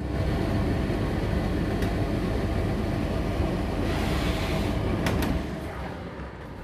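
Tumble dryer with no drive belt fitted, making a loud rumbling rattle that starts suddenly and dies away after about five seconds.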